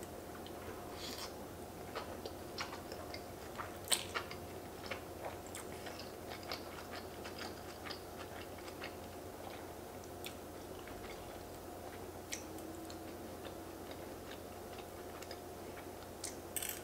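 A person chewing a mouthful of fettuccine close to the microphone, with soft wet mouth clicks and smacks and one sharper click about four seconds in.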